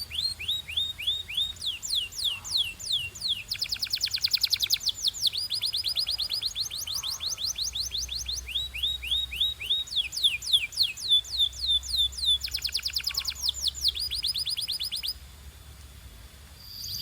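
Domestic canary singing: rapid rolls of high, repeated down-sweeping notes, each roll changing to a new note type every second or two. The song breaks off about two seconds before the end.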